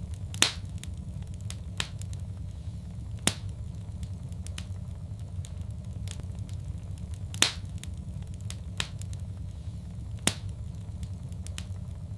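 Fireplace fire crackling: sharp, irregular pops and snaps over a steady low rumble of burning, with the loudest pops about half a second in and again past the middle.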